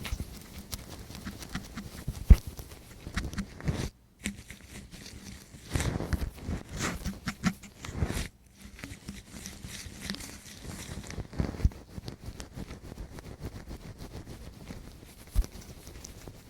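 Close-up ASMR ear cleaning on a microphone: a tool scratching and rubbing in irregular crackling strokes with sharp little clicks, louder and denser in the middle, cutting out briefly twice.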